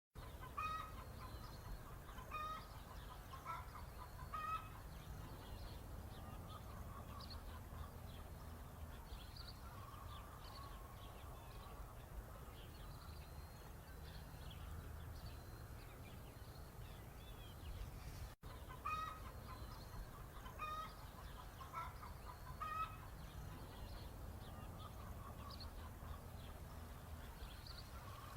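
Hen clucking in short repeated calls, with chicks peeping higher, over a steady low noise. The sound cuts out for an instant about two-thirds of the way through.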